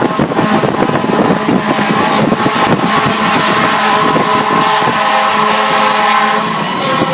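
Fire truck on the move, heard from inside the cab: engine running steadily with a constant drone and road noise throughout.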